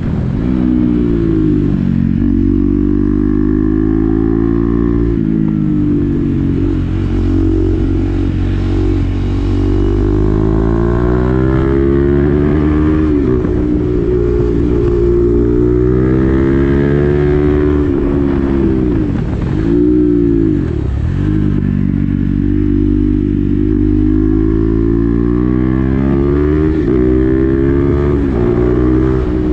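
KTM Duke 390's single-cylinder engine through an SC-Project exhaust with the dB killer fitted, ridden hard: the pitch climbs under throttle and drops away again several times as it shifts and rolls off.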